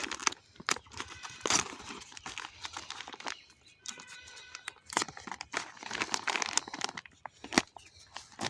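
Plastic packaging of a toy helicopter being unwrapped: crinkling and rustling in uneven bursts, with sharp clicks and knocks of the toy and box being handled.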